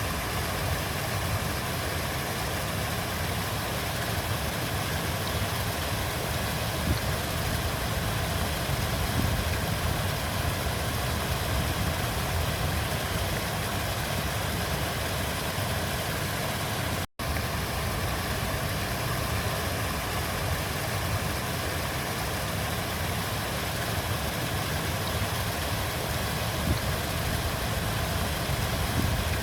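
River water flowing: a steady rushing with a deep low rumble. It drops out for an instant a little past halfway.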